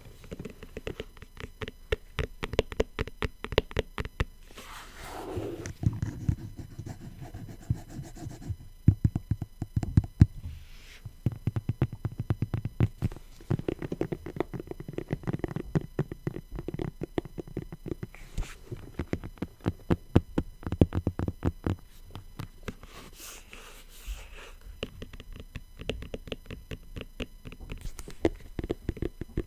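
Rapid tapping and scratching on faux leather, many quick taps a second in long runs, broken by a few brief rubbing swishes.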